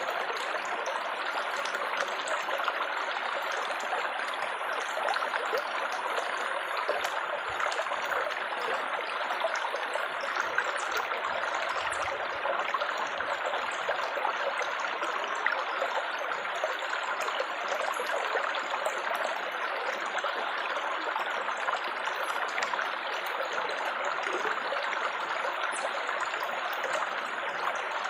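Gently trickling, babbling water, a steady stream sound with many small splashes and no change throughout.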